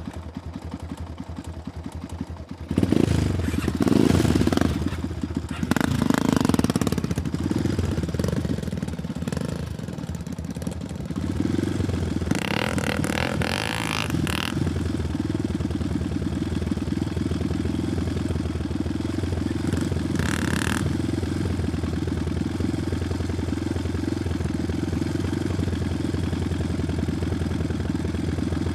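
Trail motorcycle engine revving hard in uneven bursts while the bike is bogged in deep mud. After about 11 seconds it settles into a steady run, with a couple of brief louder noisy patches.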